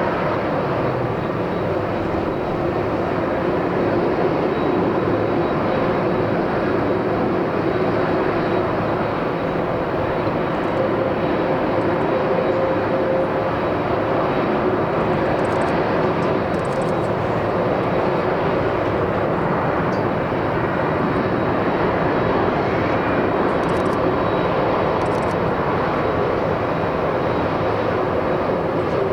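Jet airliner's engines on approach to landing: a loud, steady noise with a few held tones running through it.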